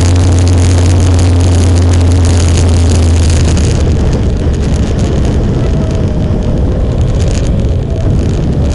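Motorcycle riding on the road: engine and wind rushing over the microphone, a loud steady roar that eases off about four seconds in and builds again near the end.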